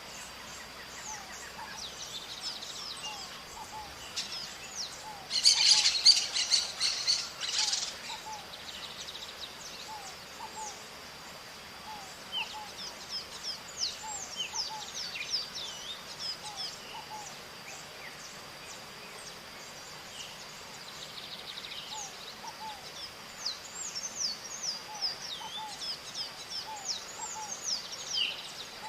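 Maritacas (small parrots) and other birds calling, many short high falling chirps throughout, with a loud harsh burst of screeching about five to eight seconds in. A steady high-pitched hum sits underneath.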